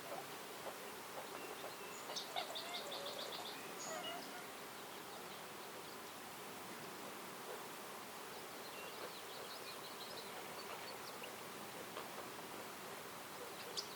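Forest birdsong over a steady background hiss: a small bird gives a quick trill of about eight repeated high notes around two to three seconds in, and fainter high chirps follow later on.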